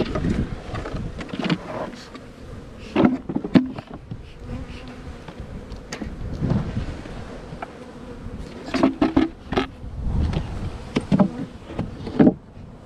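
Honeybees buzzing around open hives, with single bees flying close past in short swelling hums. Occasional knocks and clicks are heard over the buzzing.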